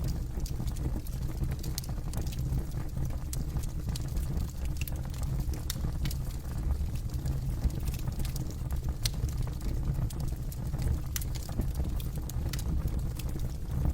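Campfire burning, the wood crackling and popping in irregular sharp snaps over a steady low rumble.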